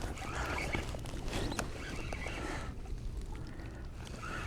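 Water sloshing and splashing against a sea kayak's hull, with a single light knock about one and a half seconds in.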